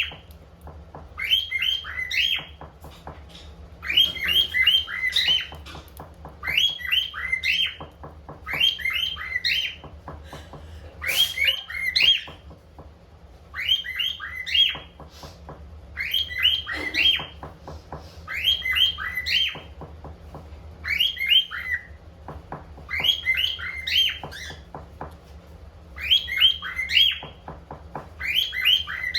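Cockatiel chirping in short bursts of quick, rising chirps, a burst about every two to three seconds.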